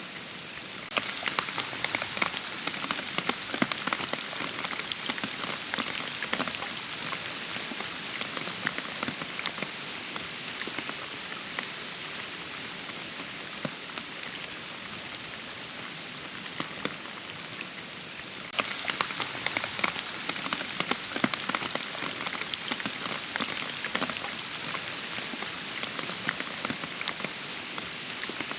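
Steady rain falling, with many separate close drops striking through the hiss. The close drops grow louder about a second in and again about 18 seconds in, easing off a few seconds after each rise.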